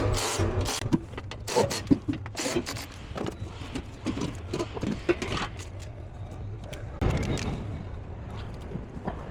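Irregular knocks, clicks and clanks of hand work on the van, with a louder stretch of noise about seven seconds in.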